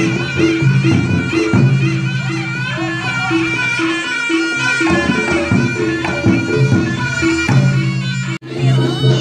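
Reog gamelan music: a slompret, the nasal double-reed shawm, plays a wavering melody over a repeating pattern of tuned gong-chimes and a steady low tone. The music breaks off for an instant near the end, then carries on.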